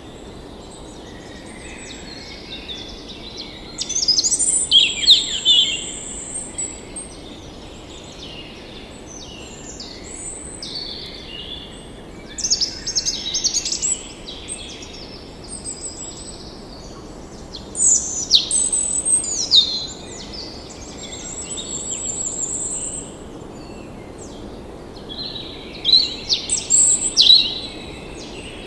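Birds chirping and trilling in several short bouts over a steady background hiss.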